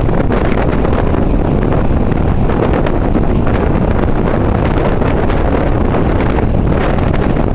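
Strong wind buffeting the camera's microphone: a loud, steady rumble that pulses a little but never lets up.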